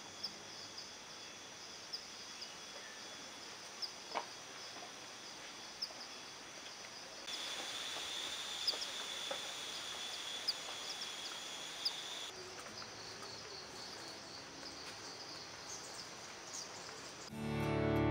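Quiet forest ambience with small birds chirping repeatedly and a steady high-pitched drone for about five seconds in the middle. Acoustic guitar music comes in near the end.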